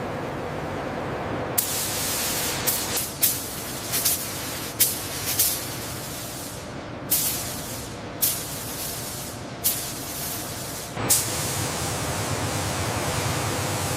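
Compressed-air nozzle spraying in short, repeated bursts of hiss, each starting sharply, over a steady background hiss.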